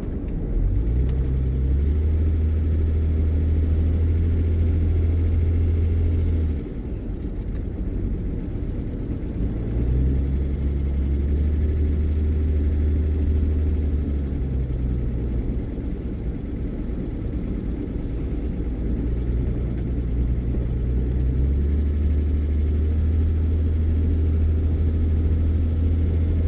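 Vehicle engine and road noise heard from inside the cabin: a low drone that drops away a few times and picks up again as the driver eases off and accelerates.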